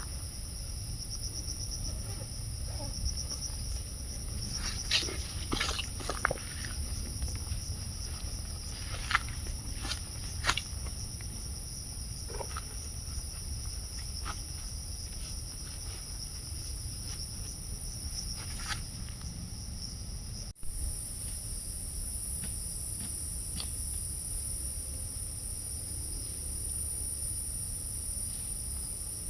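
A steady, high-pitched chorus of forest insects, with scattered sharp clicks in the first half. About two-thirds through there is a brief break, after which the insect sound is louder.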